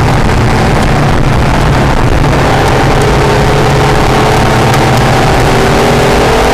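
Acura NSX's V6 engine running hard on track under a loud rushing noise. The engine note fades back near the start, then climbs steadily in pitch from about two and a half seconds in as the car accelerates.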